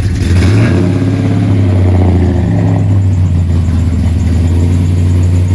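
Car engine running close by with a steady low note; a second, higher engine note swells during the first three seconds, then fades back.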